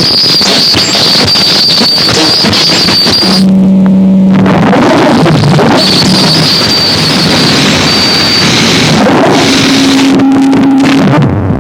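Harsh noise music: a loud, dense wall of distorted noise. A steady high whine drops out about three seconds in and comes back for a while in the middle. Low droning tones come and go beneath it.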